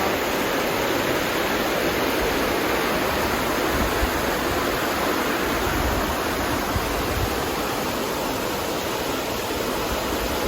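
River rapids: water rushing over rocks in a small stretch of white water, making a steady, even rush.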